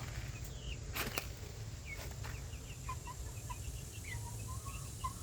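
Birds chirping with short high calls and a few lower notes, with a couple of sharp knocks about one and two seconds in, over a low steady rumble.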